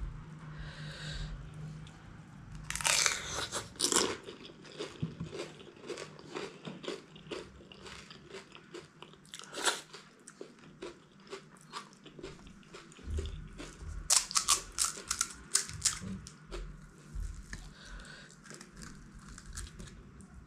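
Close-up crunching and chewing of crisp golgappa (pani puri) shells dipped in sweet curd, heard as bursts of sharp crunches. The loudest bursts come about three seconds in and in a quick run around fourteen to sixteen seconds in.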